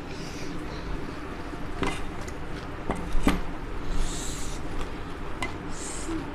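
Close-up eating of puchka (pani puri): a few sharp crunches and clicks of the shells and dishes, and two short hissy slurps.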